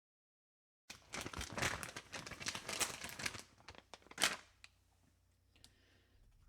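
Irregular crinkling and crackling for about three seconds, with one louder crackle about four seconds in, then only faint noise.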